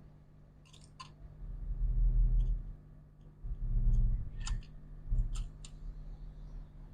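A few sharp small clicks and several dull low bumps from laptop parts being handled and set down on a workbench as a MacBook Pro logic board is fitted back into its case.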